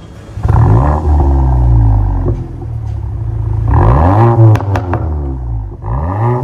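Škoda Octavia RS's 2.0-litre turbo four-cylinder (EA888 evo4) through an MS-R valved cat-back exhaust, revved three times, each rev climbing and falling back. A few sharp exhaust pops crack as the second rev drops away.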